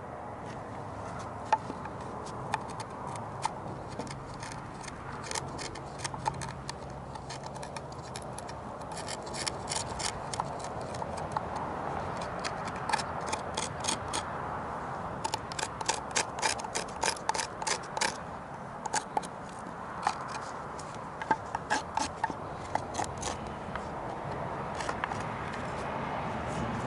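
A hand tool scraping and carving at wood, in runs of short, quick strokes that click sharply against the grain, with steady rubbing between the runs.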